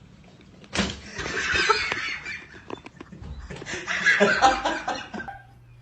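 A person laughing in two long bouts: the first breaks out suddenly about a second in, and the second follows after a short pause.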